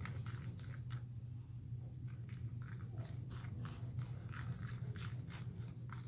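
Glue-and-borax slime being stirred quickly in a bowl: a run of irregular, sticky clicks and crackles as the forming slime is worked.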